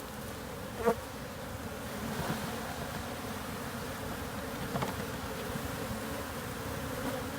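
A mass of honey bees buzzing steadily as they are disturbed during a hive cutout and shaken into a new box. There is a short knock about a second in.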